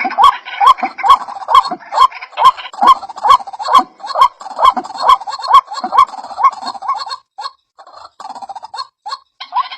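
White-breasted waterhen calling: a rapid series of short rising notes, about two to three a second. The notes falter and grow fainter a little past the middle, then pick up again at the end.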